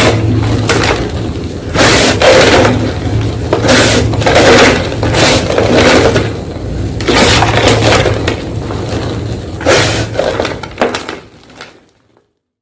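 White gym chalk being crushed: a run of crunches every second or two over a steady low hum. The sound cuts off shortly before the end.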